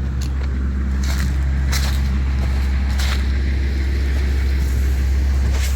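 A 2004 Honda Accord engine idles with a steady low drone, running rough from a misfire on one cylinder that is suspected to be a bad ignition coil. A few sharp clicks sound over it.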